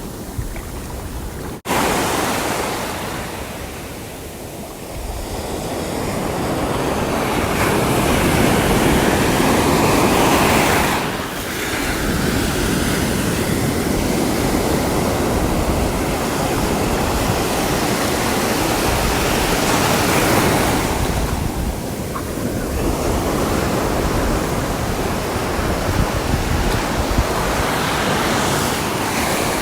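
Sea waves breaking and washing on the shore, the surf swelling and ebbing every several seconds, with a brief dropout about two seconds in.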